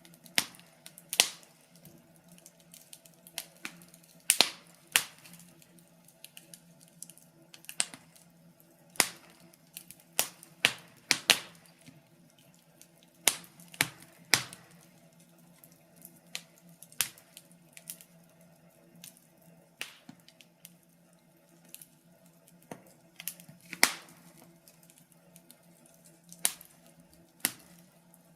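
Wood fire crackling, with irregular sharp pops and snaps, a few louder ones, over a faint steady hum.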